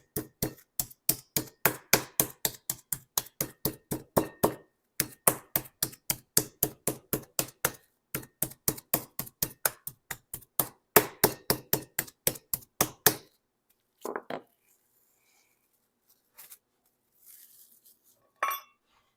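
Meat mallet pounding a chicken breast flat through plastic wrap: fast, even strikes about four a second, in three runs with short breaks. The strikes stop about two-thirds of the way through, leaving a few scattered light knocks.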